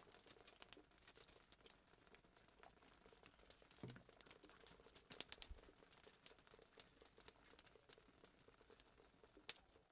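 Fireplace sound effect: a wood fire crackling faintly, with irregular small pops and a few louder snaps.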